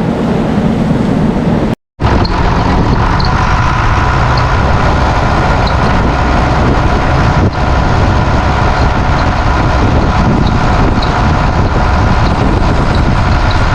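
Tractor engine running steadily under way, with a brief dropout about two seconds in.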